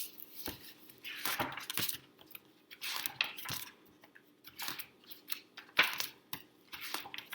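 Rustling and small clicks and knocks of a picture book being handled as it is opened and its pages turned.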